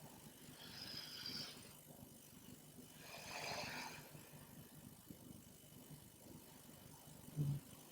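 A woman breathing audibly in time with a yoga movement: two soft, breathy breaths about two seconds apart, the second fuller and longer, then a brief low voiced sound near the end.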